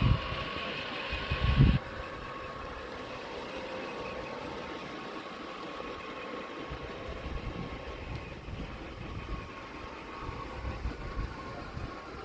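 A steady mechanical hum. Wind gusts buffet the microphone in the first two seconds, then stop abruptly.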